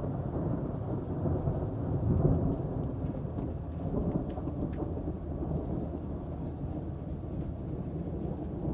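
Rolling thunder rumbling low and long, swelling to its loudest about two seconds in, over steady rain with scattered drops.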